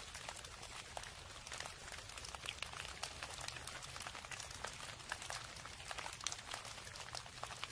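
Rain falling steadily, a light hiss with many separate drops pattering and ticking on a hard surface.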